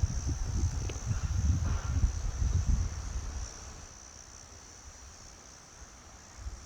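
Crickets chirping in a steady high-pitched chorus. A low gusty rumble sits under it for the first three and a half seconds and then dies away.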